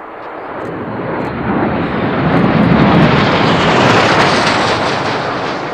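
Jet aircraft passing close by, its engine noise swelling to a loud peak about three to four seconds in, then fading away.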